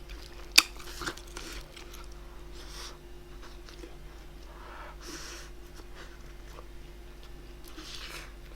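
Close-miked chewing and mouth sounds of someone eating, with a sharp click about half a second in and a softer one a moment later.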